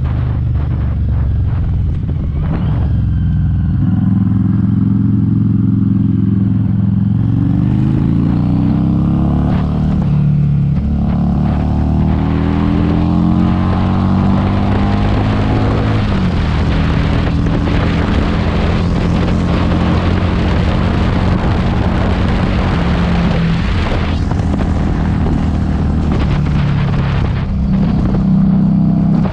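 Harley-Davidson Street 500's V-twin running through a TAB Performance aftermarket exhaust while riding. The engine note climbs in pitch for several seconds midway under acceleration, drops back, then holds steady at cruise. Wind buffets the microphone.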